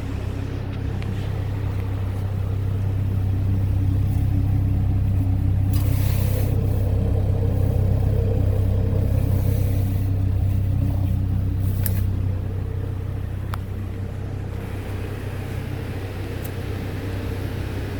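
2005 Chevy Colorado's 3.5-litre inline-five engine running steadily at an even speed, growing louder for a stretch in the middle before settling back, with a couple of faint clicks.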